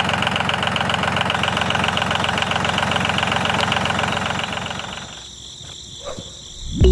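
A small motor running with a rapid, even rhythm, fading out about five seconds in. A few light clicks follow, and music starts right at the end.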